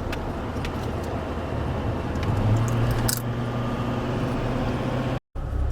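Steady engine and road noise heard from inside a moving vehicle towing a trailer, a low hum with an even rush over it and a few light clicks. The sound cuts out for an instant about five seconds in.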